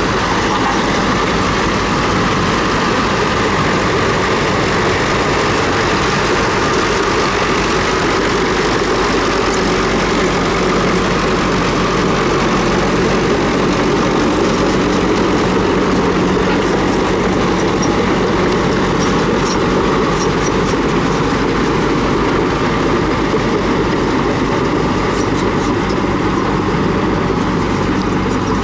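Komatsu D31P crawler bulldozer's diesel engine running steadily under load, with its steel tracks clanking and clattering more often in the second half.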